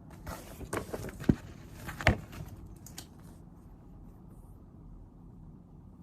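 Small objects being handled on a desk: a flurry of clicks and knocks lasting about three seconds, with the two sharpest knocks about a second and two seconds in, over a low steady room hum.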